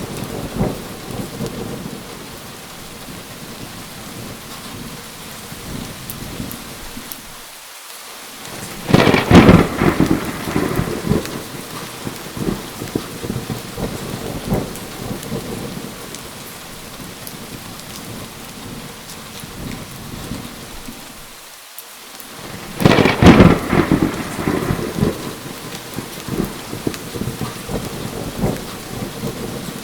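Steady rain falling, with two thunderclaps, one about nine seconds in and another about 23 seconds in, each cracking and rumbling for a few seconds before dying back into the rain.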